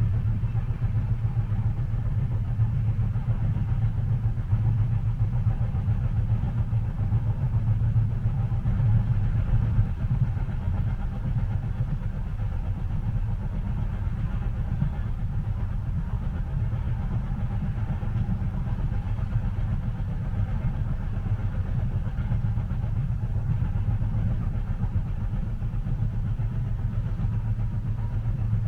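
Steady low rumble of a train heard from inside a passenger cabin, a continuous even drone without distinct clicks.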